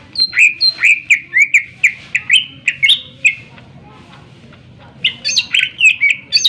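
Green leafbird (cucak ijo) singing loudly: a quick run of sharp, down-slurred notes for about three seconds, a pause of under two seconds, then another fast burst.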